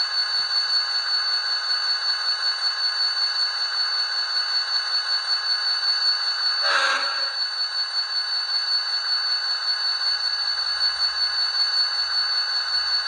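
Diesel locomotive engine sound from the DCC sound decoder of an HO scale V/Line A class model, played through the model's small speaker. It runs steadily with a quick, even throb and a high steady whine, and with no deep bass. A brief louder sound comes about seven seconds in.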